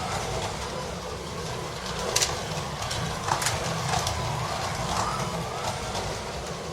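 Carrera Digital 132 slot cars running around the track: a steady electric motor hum with faint rising and falling whines as the cars speed up and slow down, and a few sharp clicks.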